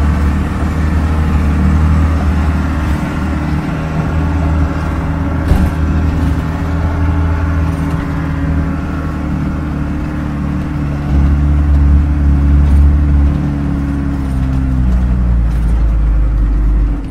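Land Rover's Toyota 14B diesel engine running steadily as the vehicle drives slowly, getting louder for a couple of seconds about two-thirds of the way through.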